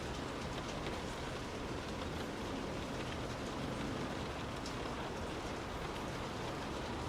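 Steady rain heard from inside a car, falling on the roof and windows as an even hiss with scattered faint drop ticks.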